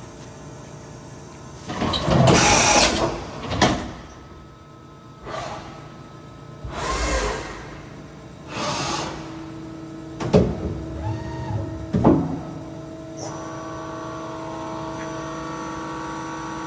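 Mori Seiki NH4000DCG horizontal CNC machining centre working: a steady machine hum broken by several loud hissing bursts and a few sharp metallic clunks, then a steady whirring hum with several fixed tones that sets in about two thirds of the way through.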